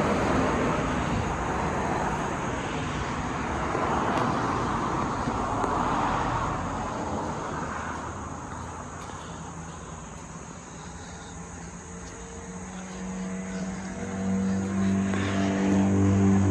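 Motor vehicle noise: a passing vehicle's wide rushing sound swells and fades over the first half. Then a steady low engine drone grows louder toward the end.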